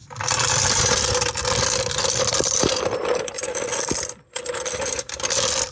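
Floor jack being rolled and dragged across the ground, its metal wheels rattling and scraping, with a short break about four seconds in.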